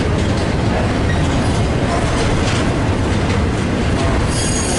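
A train rolling past, its wheels clicking over the rail joints in a steady rumble. Near the end a thin high-pitched squeal comes in.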